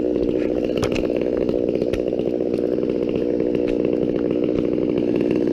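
Two-stroke chainsaw engine running steadily at a fast idle, without cutting.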